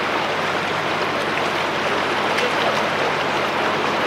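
Steady rushing of the Rhine's fast-flowing floodwater.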